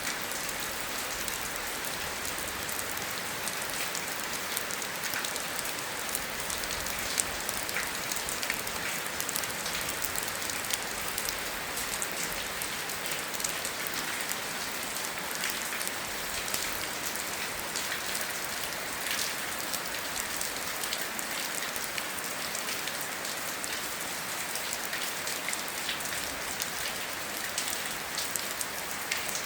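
Steady rain falling, a dense hiss with many close, distinct drops ticking on a surface.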